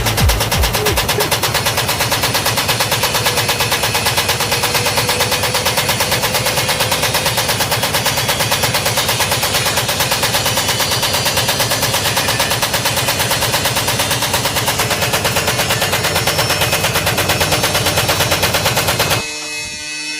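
Beko washing machine shaking itself apart, with a rapid, even, loud knocking or banging that cuts off suddenly about a second before the end, where a quieter sound of steady tones takes over.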